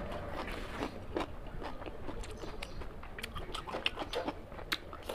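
Close-up chewing of curry and rice, with irregular short mouth clicks and smacks several times a second.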